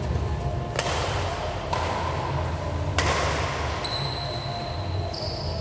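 Badminton rally in an indoor sports hall: three sharp racket strikes on the shuttlecock, with short high squeaks near the end, over a steady low rumble.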